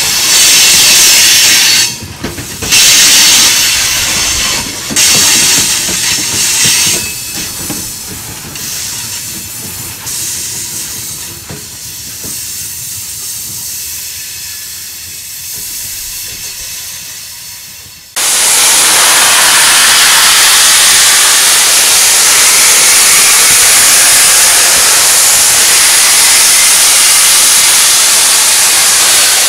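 Loaded rock hopper cars rolling past on steel rails, loud and hissy in surges with short gaps, then fading away as the end of the train passes. About 18 seconds in it cuts abruptly to a loud, steady hiss of steam venting from Union Pacific Big Boy 4014, a steam locomotive.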